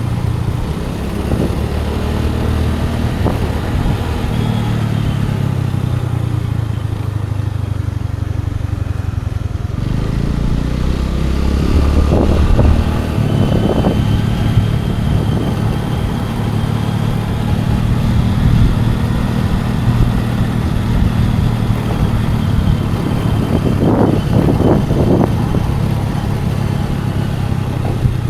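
Scooter engine running steadily while riding, its note changing about ten seconds in, with a few short rattles along the way.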